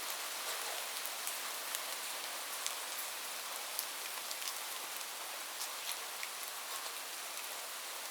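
Steady rain falling, an even hiss with individual drops ticking sharply and irregularly against a surface.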